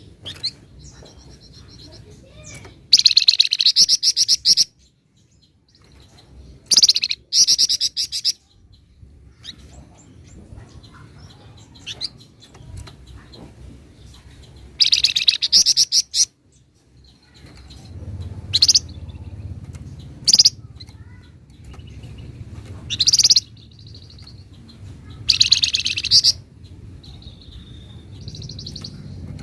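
Flamboyan songbird singing in loud, rapid rattling trills (the 'ngebren' style), about five bursts of one to two seconds each, with softer thin whistled notes between them.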